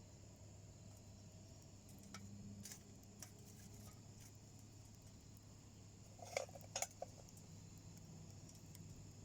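Faint crackling of wood burning in a small homemade wood stove: scattered sharp pops and ticks, with a few louder pops together about six and a half seconds in.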